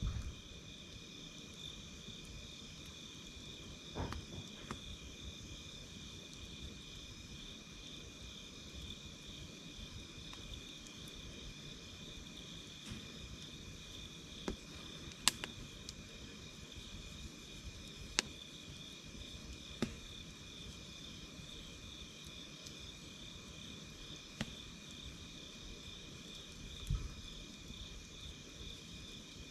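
Night insects trilling steadily at two high pitches, one of them pulsing fast. Over them a wood campfire crackles with a sharp pop every few seconds, and there are a couple of low thuds.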